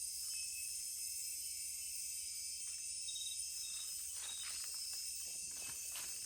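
Nocturnal Amazon rainforest insect chorus: a steady, high-pitched layered drone of crickets and other insects. Faint footsteps and rustling come in during the second half.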